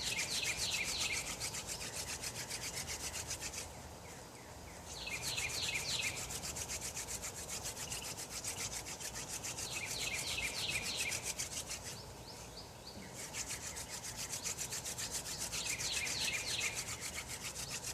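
Hand drill friction fire: a stalk spindle spun fast between the palms, its tip rubbing in a fireboard socket with a quick back-and-forth rhythm and smoking. The rhythm stops briefly twice. A bird sings a short falling trill about every five seconds.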